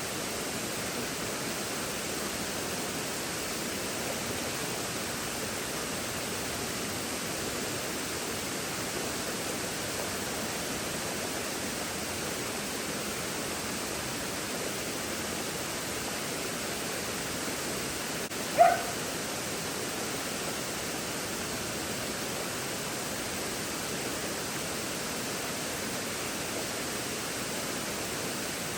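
Steady rush of creek water or a waterfall, with a single short dog bark or yip about two-thirds of the way through, the loudest sound.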